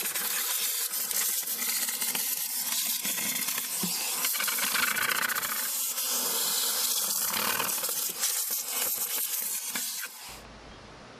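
Cleaner being sprayed in a continuous hiss, cleaning sludgy oil residue out of the inside of a Sea-Doo RXT 215 engine. The spray cuts off abruptly about ten seconds in.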